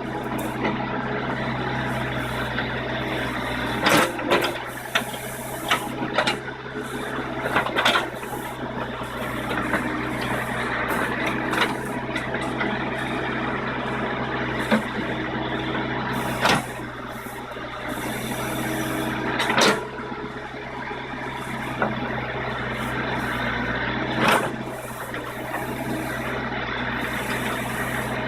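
JCB 214 Series 2 backhoe loader's diesel engine running steadily under work, with sharp metallic clanks every few seconds from the bucket and digging arm.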